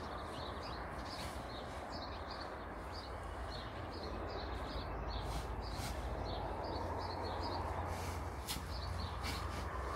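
Small birds chirping in quick, repeated high notes over a steady low rumble and background hiss, with a few sharp clicks in the second half.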